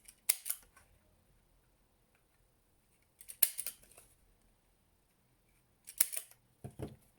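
A hole punch cutting through glossy card three times, about three seconds apart. Each punch is a quick cluster of sharp clicks, and there is a dull bump near the end.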